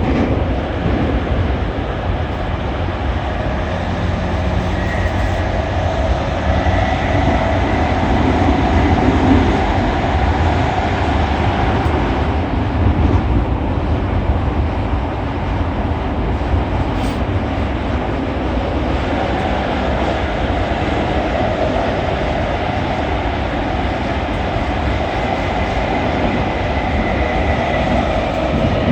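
Cabin running noise of a JR East E231 series 800-number commuter train cruising through a subway tunnel: a steady rumble of wheels on rail and motors.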